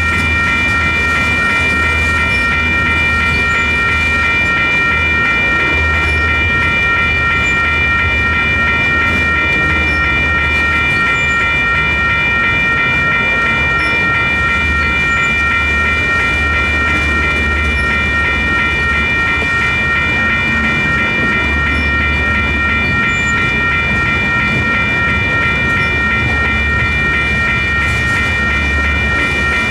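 Freight train tank cars rolling past close by with a steady low wheel rumble and some clickety-clack over the rail joints. Over it, the crossing's WCH electronic bells ring without a break while the gates are down.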